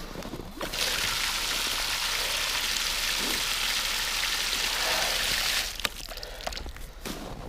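Water running in a steady splashing stream over a frozen-up item, run on it to thaw it. It starts about a second in and stops shortly before the end.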